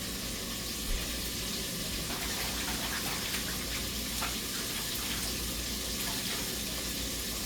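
Chicken drumettes deep-frying in hot oil: a steady sizzling hiss with scattered small crackles, the fresh second batch just dropped in.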